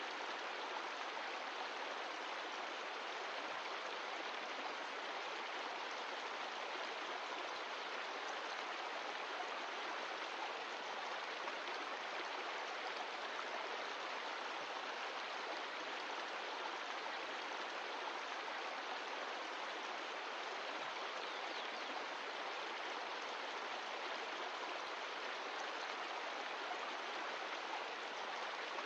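Mountain stream flowing: a steady, even rush of water with no change in level.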